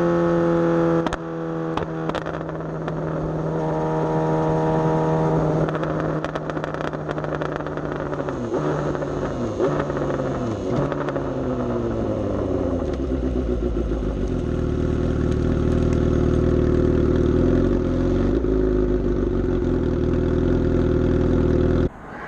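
Suzuki GSX-S750 inline-four motorcycle engine, heard from the rider's position while riding. It holds steady revs at first, then the pitch falls in several steps as it slows. It then runs steadily at lower revs, and the sound cuts off abruptly near the end.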